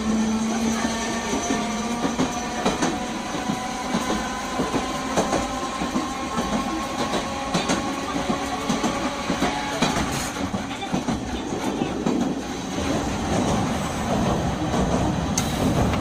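Nagasaki Electric Tramway 370-class streetcar running, heard from inside the car. A faint motor whine rises slowly as the tram gathers speed, with frequent sharp clicks and rattles from the wheels and body. The low rumble grows heavier from about 13 seconds in.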